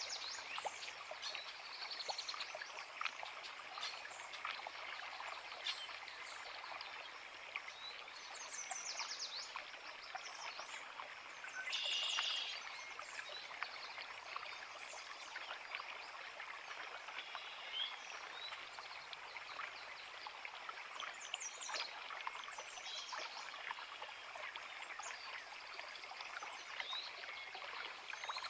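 A forest creek running steadily over rocks, with birds singing short chirps and calls throughout; one louder call stands out about twelve seconds in.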